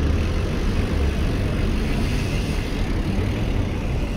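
Wind buffeting the microphone and tyres rolling on pavement as a bicycle rolls down a ramp: a steady low rumble with a hiss over it.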